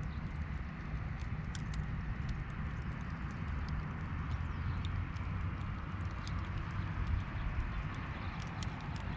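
Wood campfire crackling, with irregular sharp pops and snaps over a steady low background noise.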